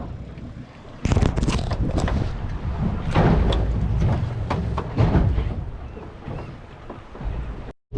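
Wind buffeting the microphone and water noise aboard a small aluminium boat in rough water, with irregular sharp splashes and knocks, louder from about a second in.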